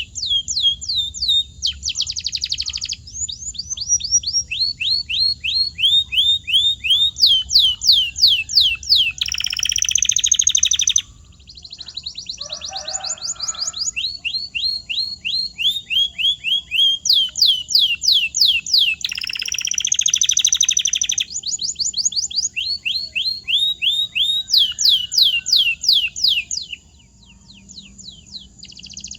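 Domestic canary singing: phrases of quickly repeated down-slurred whistled notes, several a second, twice broken by a fast buzzy roll. There is a short break a little over a third of the way in and a quieter spell near the end.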